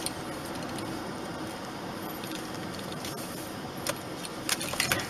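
Steady hum inside a car's cabin, with a few short light clicks or rattles about four to five seconds in.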